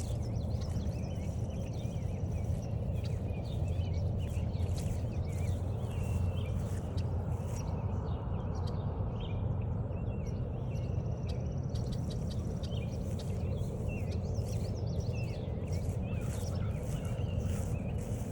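Footsteps on a woodland trail with songbirds calling all around, under a steady low rumble. A high, even bird trill lasting about two seconds comes twice, near the start and about eleven seconds in.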